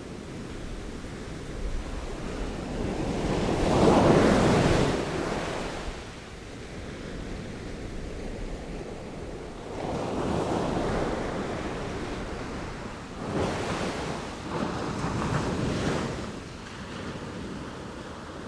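Sea waves breaking and washing ashore: surges of surf, the loudest about four seconds in and more around ten and fourteen to sixteen seconds in, over a steady rush of wind and water.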